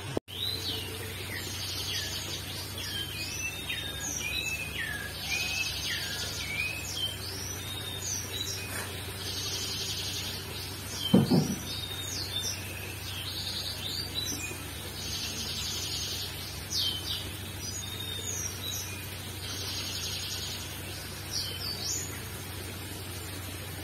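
Small birds chirping and trilling over and over, with a steady low hum underneath and a single dull thump about eleven seconds in.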